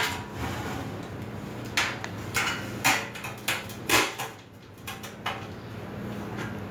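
Metal grill parts clanking and knocking against each other as they are handled and fitted during assembly: about half a dozen separate clanks a second or so apart.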